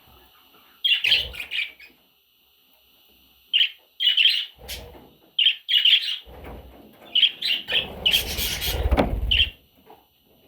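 Budgerigar chirping in short bursts of quick high chirps, with a louder rustling noise under the last burst, about eight seconds in.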